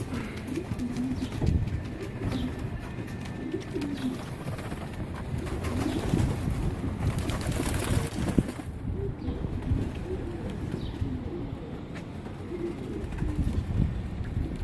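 Young racing pigeons cooing, many overlapping low coos repeating. A short rush of noise comes about halfway through.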